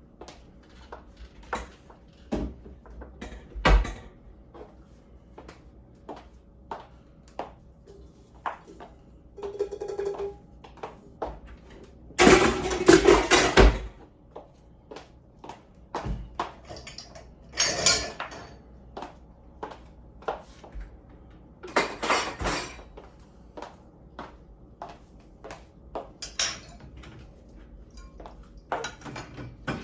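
Dishes and cutlery clinking and clattering as a dishwasher is unloaded: scattered single clinks, with a few longer, louder clatters, the loudest near the middle.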